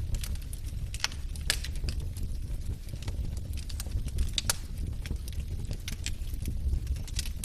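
Wood fire burning in a fireplace: irregular sharp crackles and pops from the logs, a few of them louder, over a low steady rumble.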